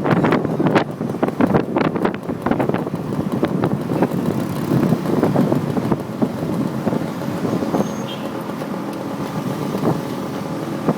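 Wind buffeting the microphone of a passenger riding a motorcycle taxi, over the motorbike's engine and road noise. The buffeting is heavy for about four seconds, then eases to a steadier engine and road hum.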